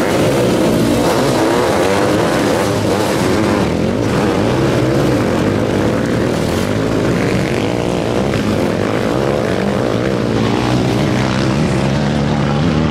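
Several motocross sidecar outfits' engines revving hard, their overlapping engine notes rising and falling in pitch as the riders accelerate and back off.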